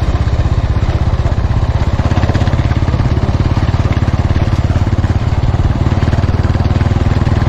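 Motorcycle engine running steadily while riding, with a fast, even pulse of exhaust beats.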